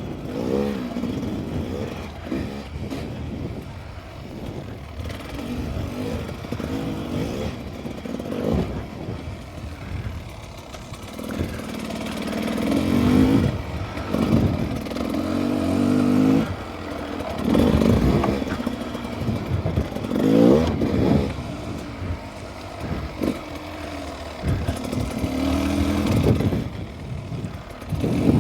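Dirt bike engine revving up and down over and over as it is ridden, its pitch rising and falling with the throttle, with several hard rev-ups through the middle and again near the end.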